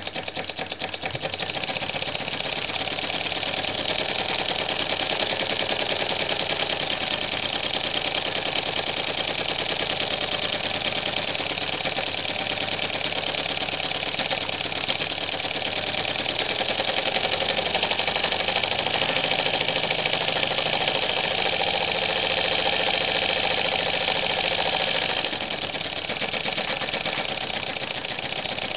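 Brass single-cylinder, double-acting, slide-valve model steam engine running fast, a rapid, even chuffing and clatter. It gets a little louder about two seconds in and eases slightly near the end.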